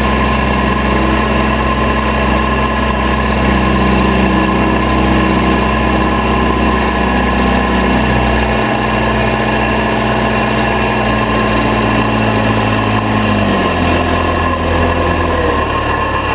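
1972 Case 580B Construction King backhoe's four-cylinder engine running steadily. Its speed steps down twice, about halfway through and again near the end.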